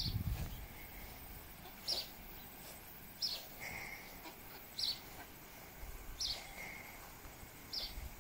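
A bird calling outdoors: six short, high-pitched calls, repeated about every one and a half seconds.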